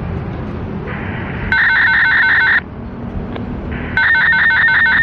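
Electronic bell ringing in two loud bursts of rapid pulses on several fixed tones, each about a second long and a second and a half apart, over a background of traffic noise.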